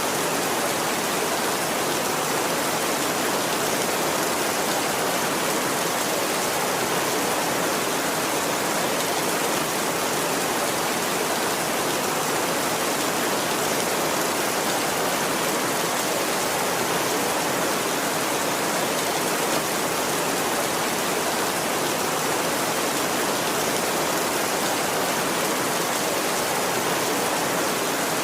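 Heavy rain falling steadily, an even, unbroken hiss with no thunder in it.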